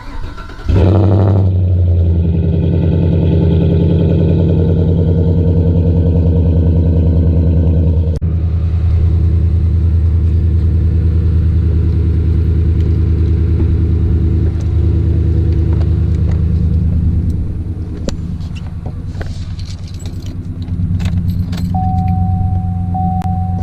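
Pickup truck engine running at a steady idle, coming in suddenly about a second in. Near the end it drops a little, with a few clicks and a steady high tone.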